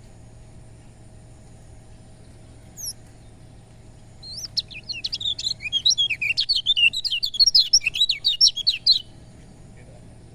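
Kecial kuning, a white-eye, giving one short high call, then a rapid run of quick high chirping notes for about five seconds before stopping abruptly. A faint steady hum runs underneath.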